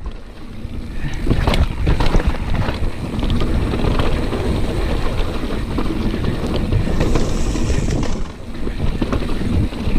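Mountain bike rolling down a wet, leaf-strewn trail: wind rushing over the microphone with tyre noise and frequent knocks and rattles from the bike over bumps.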